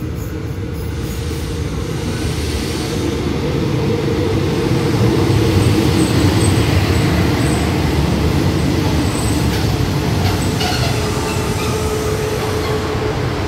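Passenger train running into the station alongside the platform, a dense low rumble of wheels and running gear that grows louder over the first several seconds as it draws level and then holds. A steady whine comes in near the end as the train brakes to a stop.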